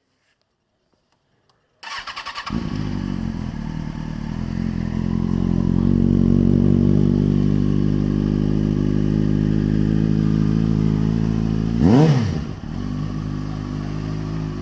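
A motorcycle engine cranks briefly and starts about two seconds in, then idles steadily. Near the end there is one quick blip of the throttle, rising and falling.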